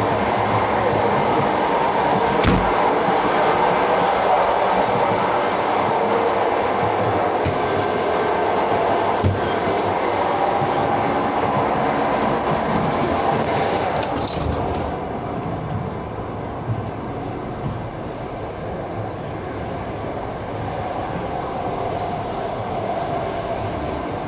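Running noise of a moving regional passenger train heard from inside the carriage: a steady rumble and rattle, with two sharp knocks in the first half. The noise becomes quieter and duller a little past halfway.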